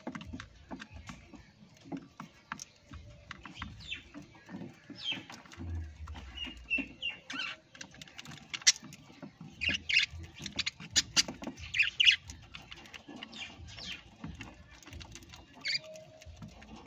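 Pet parrots giving short chirps and squawks among scattered clicks and scratches, the calls coming thickest and loudest in the second half.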